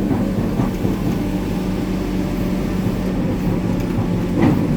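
Hitachi 890 excavator's diesel engine running steadily, an even low drone.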